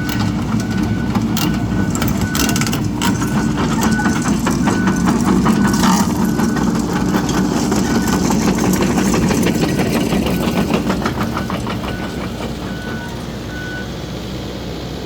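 John Deere excavator's diesel engine running under load while it travels in reverse, its backup alarm beeping at a steady pace and its tracks and bucket clanking and rattling. The engine is loudest near the middle, and the beeping stops near the end.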